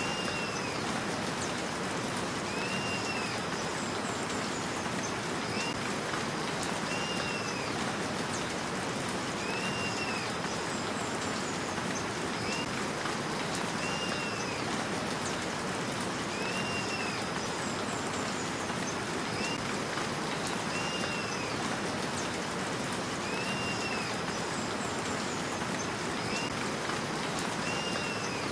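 Steady rain falling, with a short high note that rises and falls repeating about every second and a half over it.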